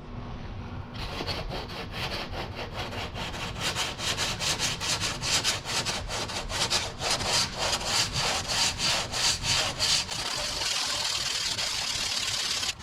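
Sandpaper on a hand sanding block rasping back and forth over cured body filler in quick, even strokes, blocking the filler down; the strokes become less distinct after about ten seconds.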